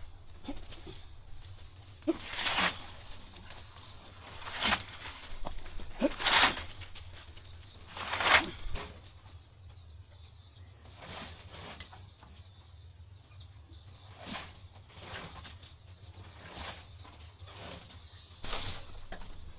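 Chickens moving about, with short bursts of wing flapping several times, the loudest a little past the middle.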